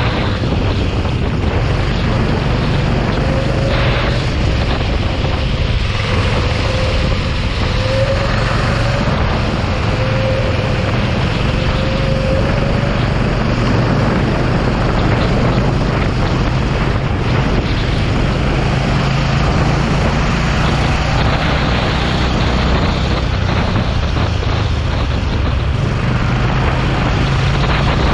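Racing kart engine running continuously, with heavy wind noise on the microphone over it.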